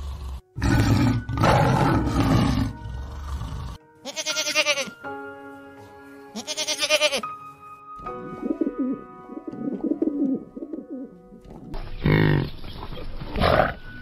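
A tiger roaring, then pigeons cooing, then two short buffalo calls, over background music with long held notes.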